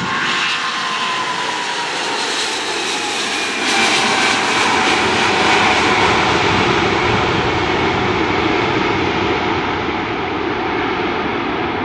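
Jet airliner engines running: a steady, loud rushing noise with a thin whine that slowly falls in pitch, the noise swelling slightly a few seconds in.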